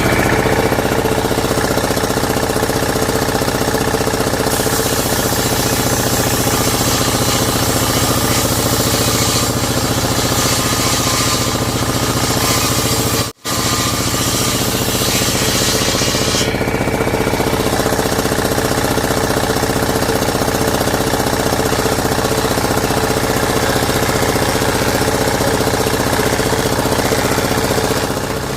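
A motor-driven woodworking power tool running steadily, with a brief cut-out about halfway through. Its higher, hissing part drops away a few seconds later.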